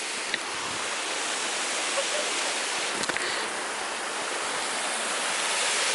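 A waterfall rushing: a steady hiss of falling water that grows gradually louder, with a few faint ticks.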